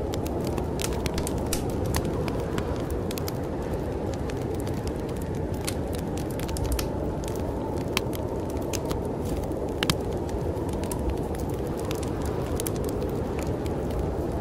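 Wood fire crackling in a fireplace, with frequent irregular sharp pops and snaps, over a steady low rushing noise of snowstorm wind.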